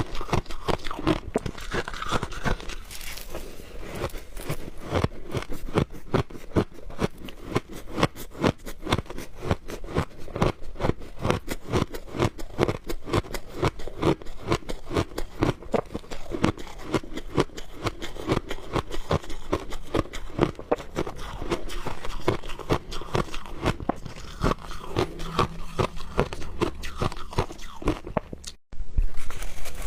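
Frozen shaved ice being bitten and chewed close to the microphone: a dense run of rapid crunches, with a brief break near the end.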